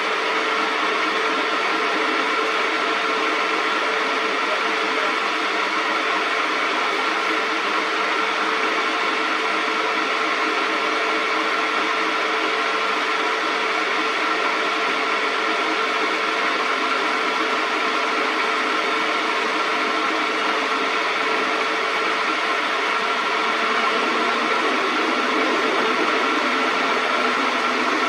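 Metal lathe running: a steady mechanical whir with a constant tone, growing slightly louder near the end.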